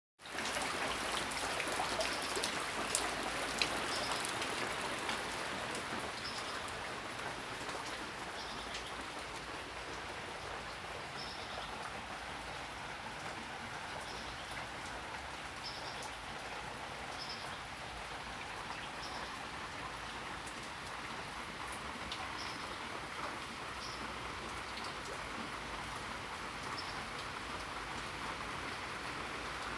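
Steady morning rain falling, with a few sharp drip impacts in the first few seconds and a bird giving short high calls every second or two.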